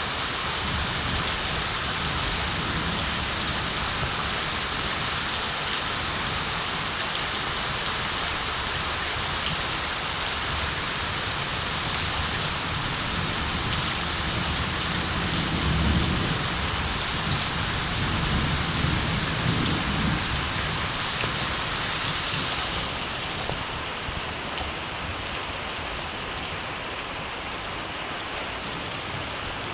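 Steady countryside rain falling, with a low rumble of distant thunder rolling through the middle. Near the end the rain suddenly turns duller as its high hiss drops away.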